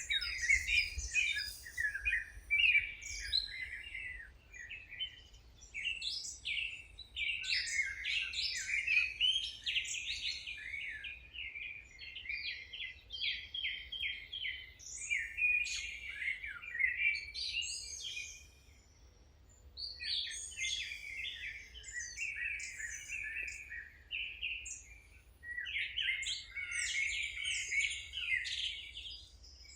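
Songbirds singing: quick, overlapping chirps and trills in bouts, with a short lull a little past the middle.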